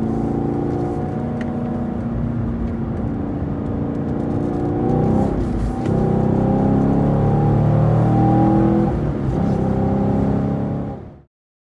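Camaro SS 1LE's 6.2-litre V8 running hard on track. Its note shifts in pitch about five seconds in and grows louder after that. The sound cuts off abruptly near the end.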